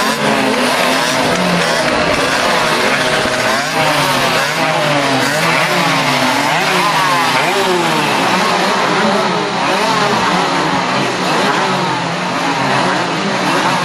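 A pack of 50cc two-stroke racing motorcycles running hard, many engine notes overlapping and repeatedly rising and falling in pitch as the riders rev through the gears.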